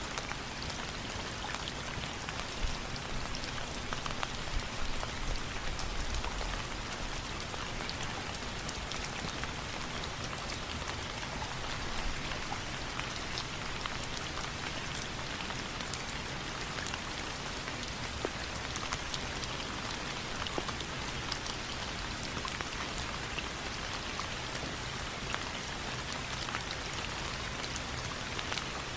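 Steady rain falling, an even hiss with many small scattered ticks and pops throughout.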